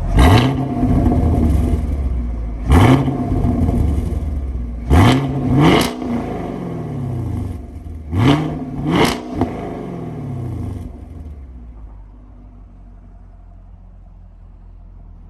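Chevrolet Camaro SS V8 on its stock exhaust, idling and being blipped: six quick revs, rising and dropping back, a couple of them in quick pairs, then settling back to a steady idle near the end.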